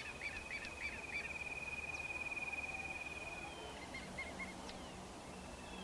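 Faint birdsong: a quick run of high chirps, then a long, even trill lasting about two seconds, then a few short notes.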